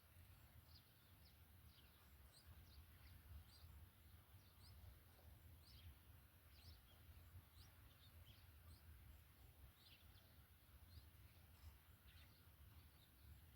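Faint short bird chirps, many of them at irregular intervals, over a low steady hum.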